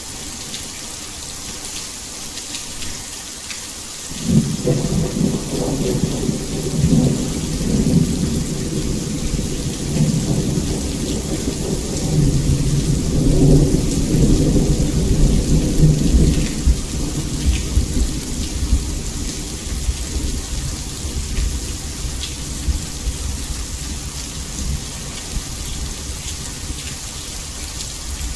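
Heavy rain falling steadily, with a long roll of thunder that breaks in about four seconds in, rumbles loudest for some ten seconds, then fades into a low grumble under the rain.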